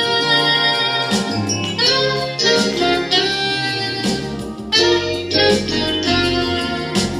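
Instrumental jazz played live, with keyboard chords and a melody line changing about every second.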